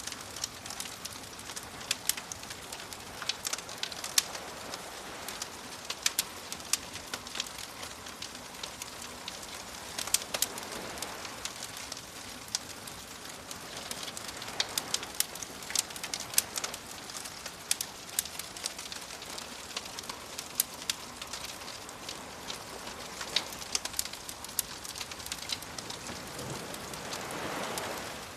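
Wood fire crackling with frequent sharp pops, over the soft wash of waves, which swell up a few times, most strongly near the end.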